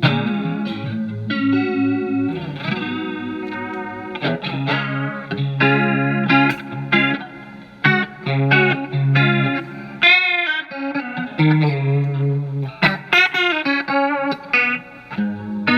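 Telecaster electric guitar played through a Marshall MG15FX amplifier's clean channel with its built-in phaser effect on, picking single notes and short phrases, with a short gap in the playing about ten seconds in.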